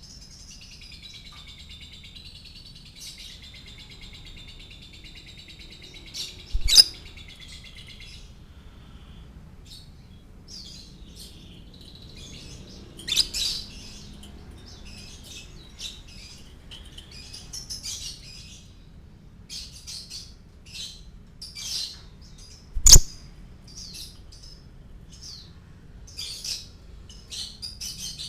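Lovebird singing: a long, unbroken chattering trill for the first eight seconds or so, then a string of short, sharp chirps. Two sharp knocks stand out, about seven and twenty-three seconds in.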